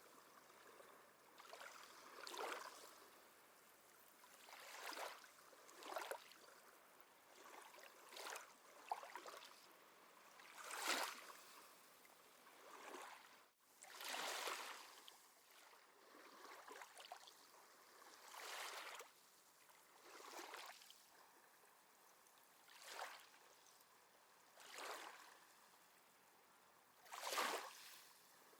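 Small sea waves lapping gently on a shore, each soft wash of water lasting about a second and coming every one to three seconds, the loudest one near the end. A very brief cut-out of the sound about halfway through.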